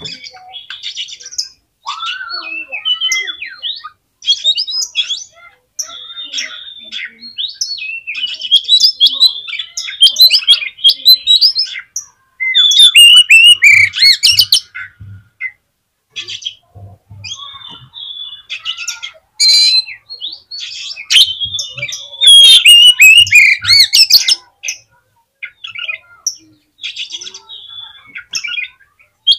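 Oriental magpie-robin (kacer) singing a busy, varied run of whistles, chirps, trills and harsh notes, the song of a bird in full voice (gacor). The song is loudest in two stretches, a little before the middle and about two-thirds through.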